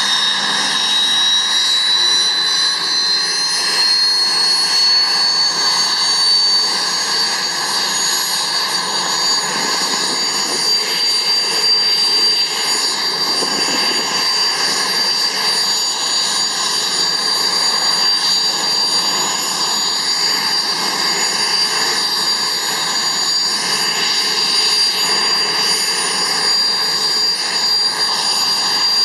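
IAR-316B Alouette III helicopter's Turbomeca Artouste turboshaft engine starting: a high turbine whine climbs steadily in pitch for about the first seven seconds as the engine spools up, then holds steady over a loud rushing hiss.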